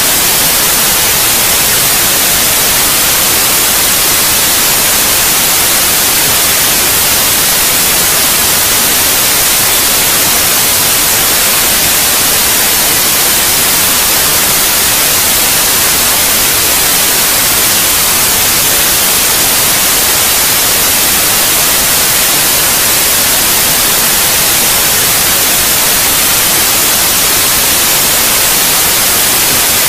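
Steady white noise: an even, unchanging hiss, brightest in the treble, played loud and continuously as a sleep aid for babies.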